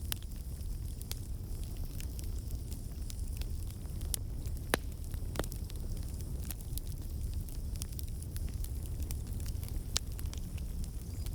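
Campfire burning: a steady low rumble of flame with scattered sharp crackles and pops, a couple of louder pops about five seconds in and again near the end.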